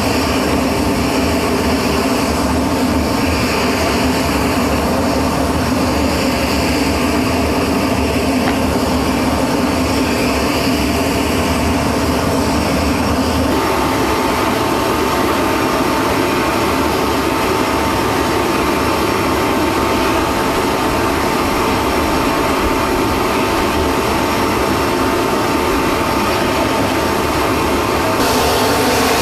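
Steady turbine noise from an aircraft running on the ground: a continuous rush with a held whine. The sound changes abruptly about halfway through and again near the end.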